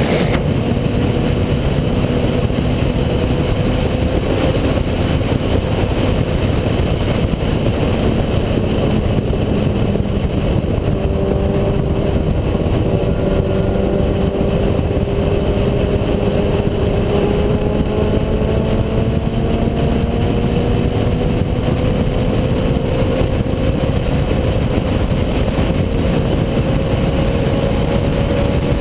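Kawasaki Z750 motorcycle engine running steadily with a loud rumble, its pitch creeping slowly upward through the second half.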